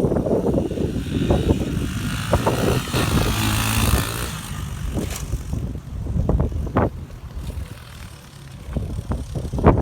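Pit bike's small single-cylinder engine running as it is ridden, louder in the first few seconds and then easing off, with a couple of sharp knocks later on.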